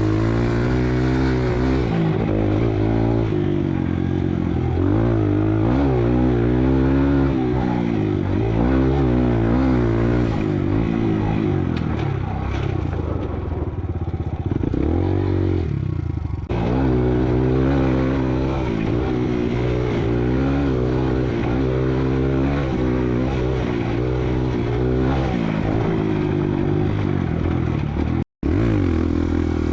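Kawasaki KLX dirt bike's single-cylinder four-stroke engine revving up and down as it is ridden, the pitch rising and falling with the throttle. The sound drops out completely for a moment near the end.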